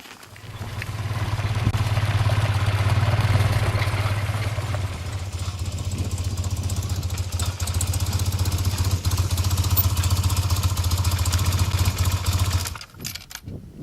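Motorcycle engine running steadily as the bike rides along, with road and wind noise; the sound cuts off suddenly near the end.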